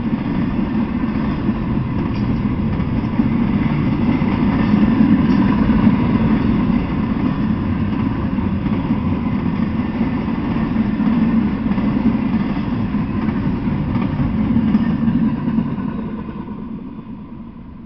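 Intermodal freight train's container well cars rolling past on the rails, a steady loud rolling noise of wheels on track that fades away in the last couple of seconds as the end of the train goes by.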